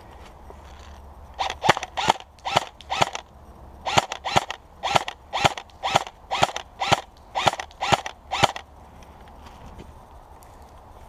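Airsoft rifle firing a string of single shots, about two a second, for around seven seconds.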